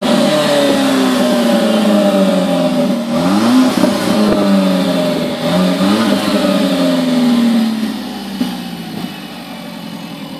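Alfa Romeo 4C's turbocharged 1.75-litre four-cylinder running just after start-up, its pitch slowly settling, with two quick throttle blips about three and six seconds in. Near the end it drops to a quieter, steady idle.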